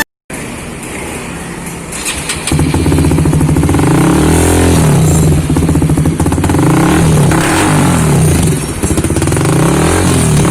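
Honda CBR150R's single-cylinder four-stroke engine running through a Purbalingga-made Akrapovic racing exhaust. It idles, then from about two and a half seconds in it is revved again and again, the pitch rising and falling with each blip of the throttle.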